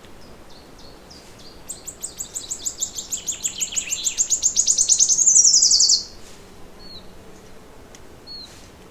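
A songbird sings a long, rapid trill of high repeated notes that grows louder and drops in pitch over about four seconds, then stops abruptly. Fainter short chirps from other birds come before and after it.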